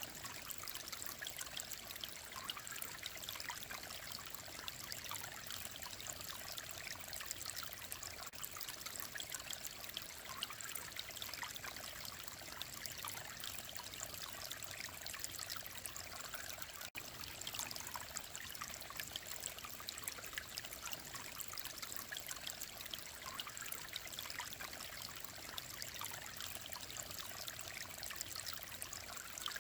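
Clear mountain stream babbling steadily over rocks, a dense trickling and splashing of water. About seventeen seconds in it breaks off for an instant.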